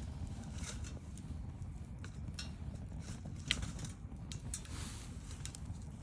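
Wood campfire crackling: scattered sharp pops and snaps of burning wood, the sharpest about halfway through, over a low steady rumble.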